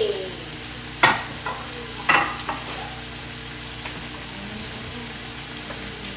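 Steady sizzle of food frying in hot oil, with two sharp knocks about one and two seconds in.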